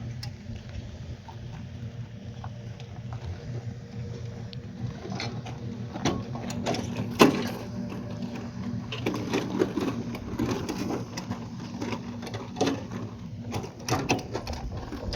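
A machine running with a steady hum, overlaid by scattered clicks and knocks; the sharpest knock comes about seven seconds in.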